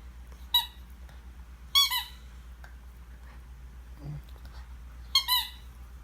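Squeaky dog toy squeezed in short, high squeaks that rise and fall in pitch: one squeak, then a pair about two seconds in, then another pair near the end.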